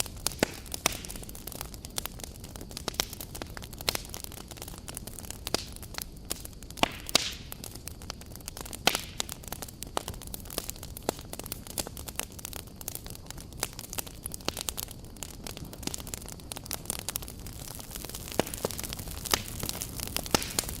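Campfire crackling: irregular sharp pops and snaps over a steady background noise of burning wood.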